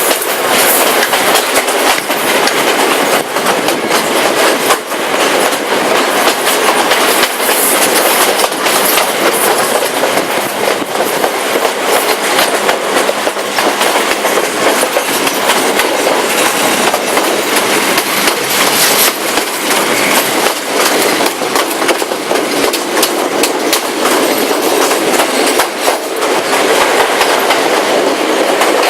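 Passenger train carriage running along the track, heard from on board: a steady loud rush of wheels on rails with frequent clicks over the rail joints.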